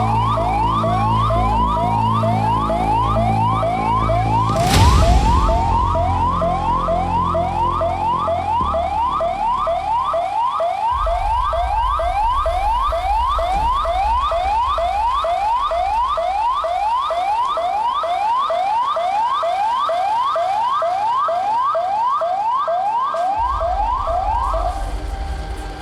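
Electronic emergency-vehicle siren sounding a slow wail for the first few seconds, then switching to a fast yelp of about two rising sweeps a second that stops just before the end. A loud knock about five seconds in.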